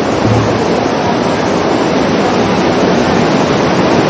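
Waterfall's rushing water: a loud, steady roar of falling water.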